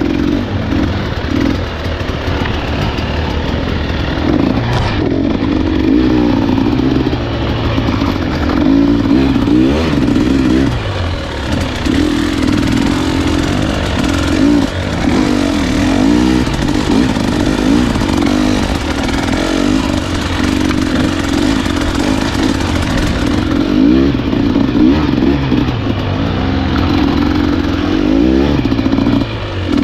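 Husqvarna enduro dirt bike engine riding a trail, its pitch rising and falling constantly with the throttle, with short easings off about 11 and 23 seconds in.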